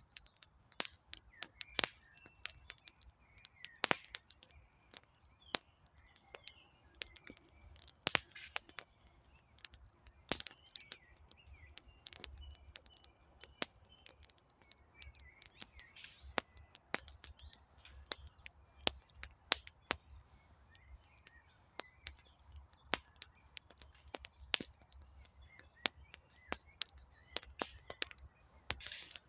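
Wood campfire crackling, with irregular sharp pops and snaps of burning logs. Birds chirp faintly in the background.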